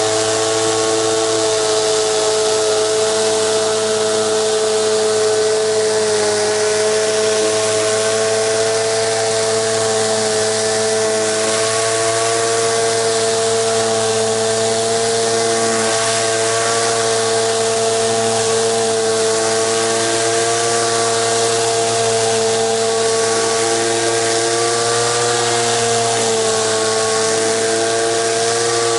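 Pressure washer running steadily, a continuous hum under the hiss of water spraying.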